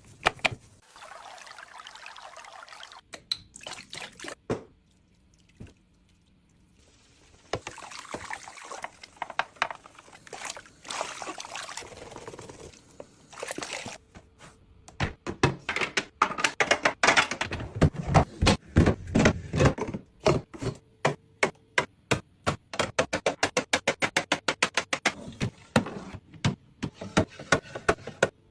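Fridge cleaning: water pouring and splashing in a few bursts, then a long run of quick, evenly repeated short strokes in the second half, getting faster toward the end.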